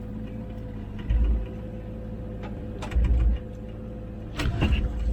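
Komatsu PC16 mini excavator's diesel engine running with a steady hum. Three or four dull low thumps with clicks come about a second and a half apart as the machine works.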